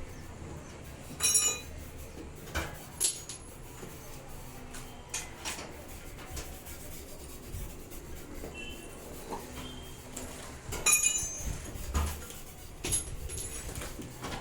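Scattered clinks and knocks of hard objects being handled, with louder ringing clinks about a second in and again around eleven seconds, over a low hum.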